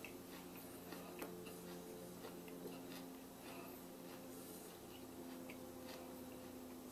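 Faint close-up chewing of a fresh, crunchy Trinidad Scorpion Butch T chili pepper: scattered small clicks and crunches over a low steady hum.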